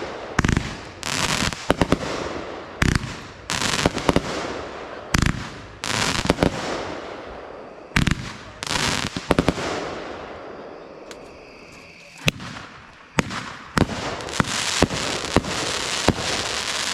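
Fireworks going off: a string of sharp bangs, each trailed by a hissing crackle, coming thicker and almost continuous in the last few seconds.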